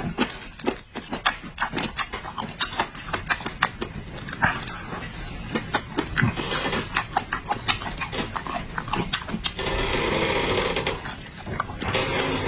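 Close-up eating sounds of a person chewing meat and noodles: wet, irregular chewing and smacking clicks, with a longer, steadier sound lasting about a second near the end.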